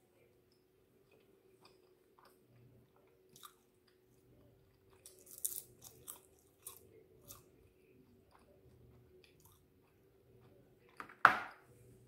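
Close-up chewing and biting of a barbecued chicken wing: small wet mouth clicks and crunches, busiest around the middle, then one sharp loud knock about eleven seconds in.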